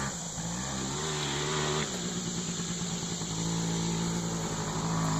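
Small Scrambler 90 ATV engine running, its pitch rising a little about half a second in, then settling and holding steady.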